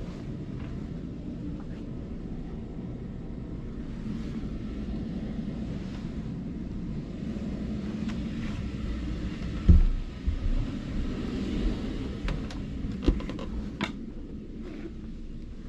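Steady low rumble with wind on the microphone. A loud thump comes about ten seconds in, followed by a few smaller knocks and several sharp clicks.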